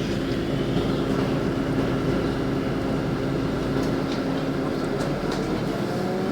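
Inside a LiAZ 5292.65 city bus under way: a steady hum of engine and drivetrain with road noise. The deep low rumble drops away about four seconds in.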